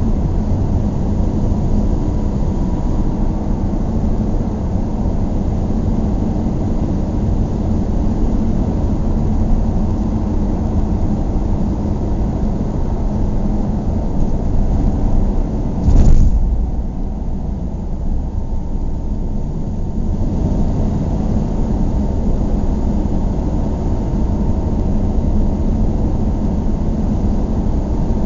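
Steady low rumble of a moving road vehicle. A single sharp knock or bump about sixteen seconds in is the loudest moment.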